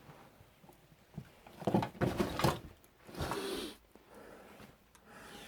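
Knocks and rustling of clutter being bumped and moved as someone squeezes through a cramped room. A louder clatter comes about two seconds in, followed by a short rustle.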